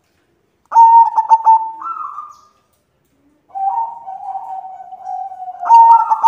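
White zebra dove (perkutut) cooing: two call phrases, the first about a second in, a quick run of clipped notes ending in a drawn-out coo, the second longer and lower, beginning about three and a half seconds in.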